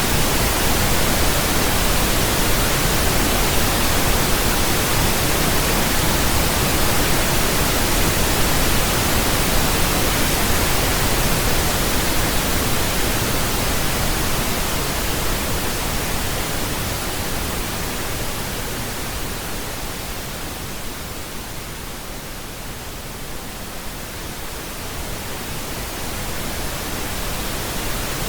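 Synthetic pink noise: an even, steady hiss with no tones or events, its level sagging a little over halfway through and rising again near the end.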